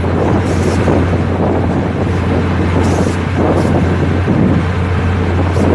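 Steady noise of a moving vehicle, with wind buffeting the microphone over a constant low hum.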